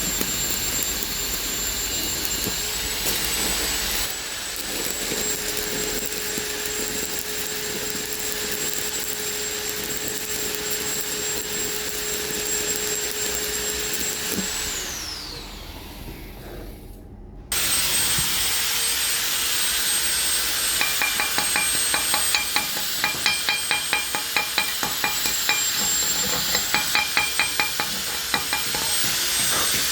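Electric power tool running steadily with a high whine, then spinning down and stopping about halfway through. After that comes steady workshop noise with quick runs of clicks.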